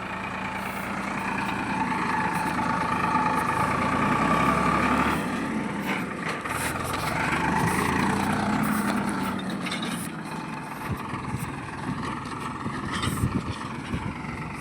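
Tractor's diesel engine running, its level rising and falling, with scattered clicks and knocks in the second half.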